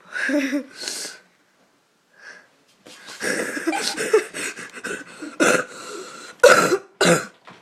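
A person coughing: one short bout at the start, then a run of harsh coughs with breathy wheezing from about three seconds in.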